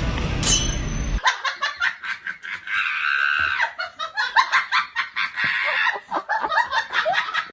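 Music that cuts off about a second in, followed by rapid, high-pitched laughter in quick repeated bursts.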